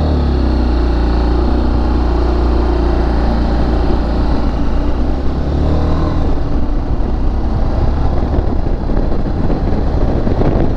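Motorcycle engine labouring at low revs as the bike pulls away in sixth gear, keeping running without stalling. About halfway through, the low steady note gives way to a rougher, noisier sound.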